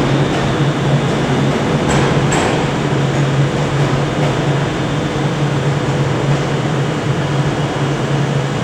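Steady low drone and hum of trains standing at a station platform.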